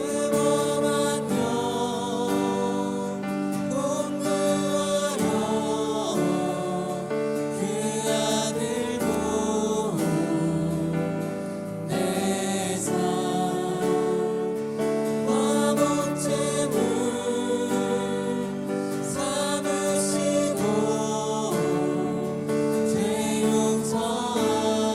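A group singing a slow Korean worship hymn together, accompanied by acoustic guitar.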